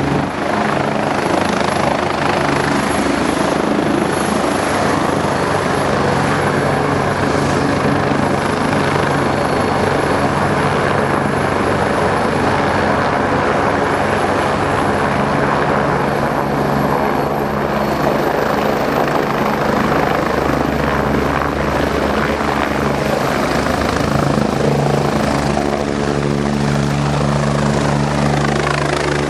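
Medical helicopter running close by: a loud, steady wash of rotor and engine noise with a thin high turbine whine that edges up in pitch a little past the middle.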